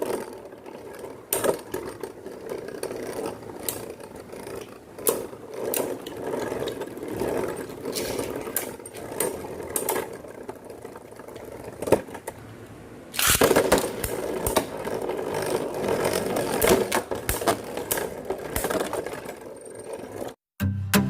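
Beyblade Burst tops spinning and clashing in a plastic stadium: a steady rattling whir broken by sharp clacks of the tops striking each other and the stadium wall. It grows suddenly louder about two-thirds of the way through.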